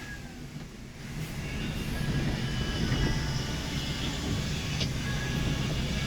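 Intercity bus heard from inside the cabin while driving: a steady low engine and road rumble that grows a little louder after the first second.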